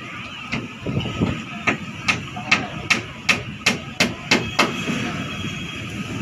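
A run of about a dozen sharp knocks at an even pace, about two and a half a second, each ringing briefly, then stopping over steady background noise.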